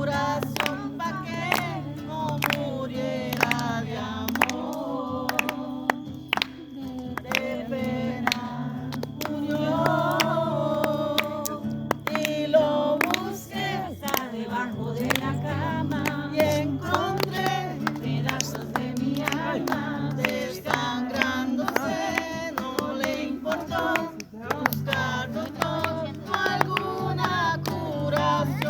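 Music: singing voices over a steady beat of sharp strokes.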